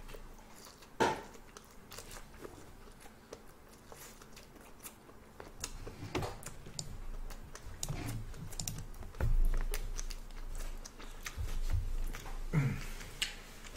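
Close-up chewing of whole cooked red shrimp, with a steady string of small crunching clicks. A few dull low bumps come about two-thirds through, and a short low hum near the end.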